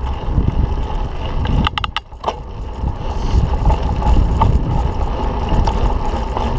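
Wind rumbling on the microphone of a mountain bike in motion, with a quick run of sharp clicks and rattles about two seconds in.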